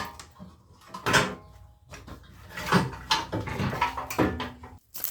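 Knocks and clatter of car body parts being handled and set down, from a front-end panel just unbolted from a damaged Ford Escape. The loudest knock comes at the start and another about a second in, with a run of smaller clunks later, some with a short ring.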